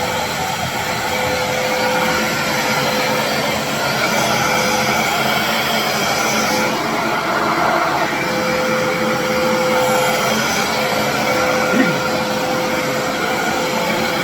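Atrix backpack vacuum cleaner running steadily just after being switched on: a loud motor whine with a steady tone over a wide rush of air. The speaker finds it as loud as a normal vacuum.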